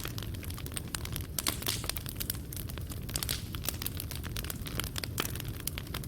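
Fireplace crackling: frequent irregular sharp pops and snaps of burning coals over a low steady rumble of the fire.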